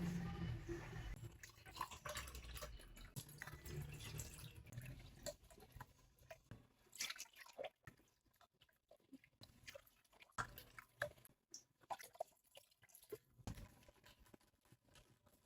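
Scattered small clicks and taps of objects being handled, over a low steady rumble for the first few seconds.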